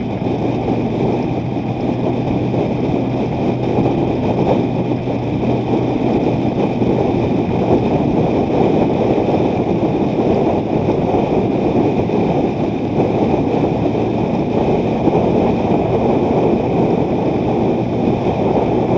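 Strong wind buffeting the microphone of a moving vehicle, a loud, steady, dense rumble mixed with road and engine noise.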